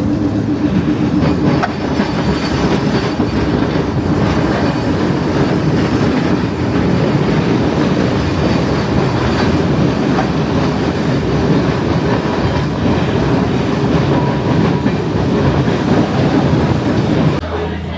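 Rail vehicle running along the track, a steady clatter of wheels on rails that cuts off just before the end.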